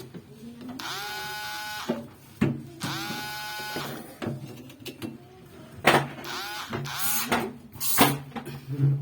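A small electric motor runs three times for about a second each, its whine rising quickly in pitch and then holding steady. Several sharp knocks and clicks follow in the second half.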